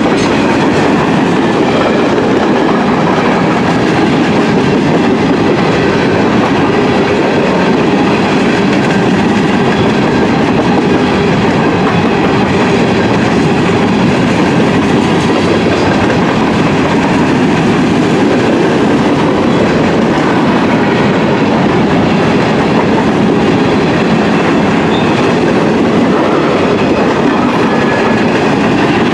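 A freight train's covered hopper cars rolling past, steel wheels clattering on the rails in a steady, loud run.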